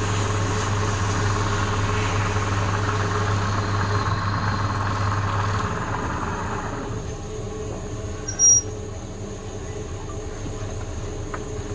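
Wood lathe running with a steady motor hum; the hum stops about halfway through and the rest of the running noise dies away a second later, leaving a quieter background. A single short high-pitched chirp comes near the end.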